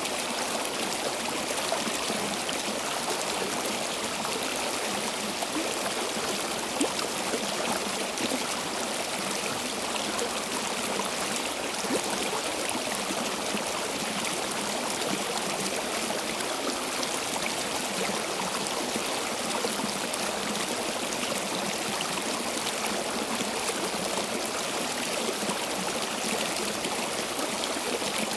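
Stream water flowing and trickling steadily, with small splashes and gurgles here and there.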